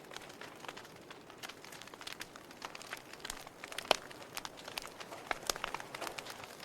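Wood fire crackling in a fireplace: irregular small pops and snaps over a soft hiss, with one louder snap about four seconds in.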